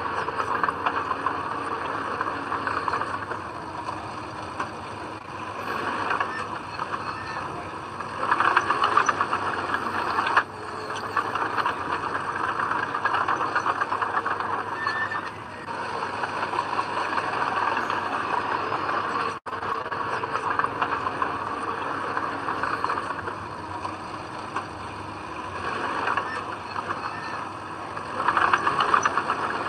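Komatsu D20P crawler bulldozer working, its diesel engine running under load and swelling louder a couple of times, with a very short dropout about two-thirds of the way in.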